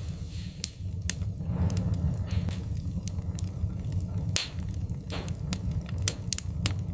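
Wood fire crackling: sharp pops and snaps about once a second, with softer crackles between, over a steady low rumble from the burning fire.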